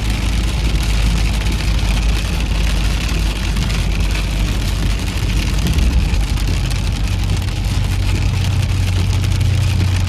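Car driving in rain: a steady low rumble of engine and road noise, with many small ticks of raindrops hitting the car. A low hum grows stronger over the last few seconds.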